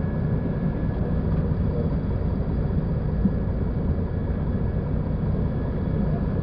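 Mercedes-Benz O-500U city bus engine running steadily, with a faint steady whine above it.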